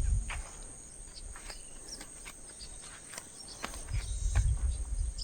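Countryside ambience: a steady, high-pitched insect buzz with scattered faint clicks, and a low rumble at the start and again about four seconds in.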